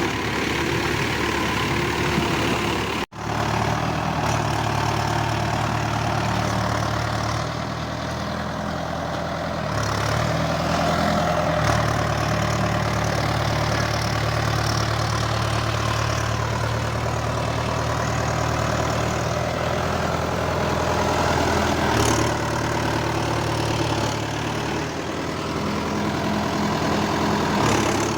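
Tractor diesel engine running steadily, its note stepping slightly a couple of times. The sound drops out completely for an instant about three seconds in.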